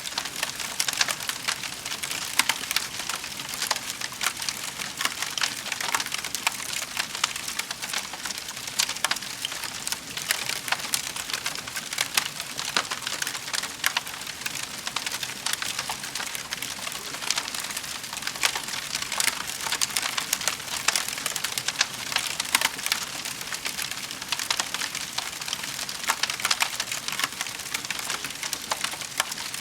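Fire crackling in a fireplace: a steady hiss packed with many small irregular pops and snaps.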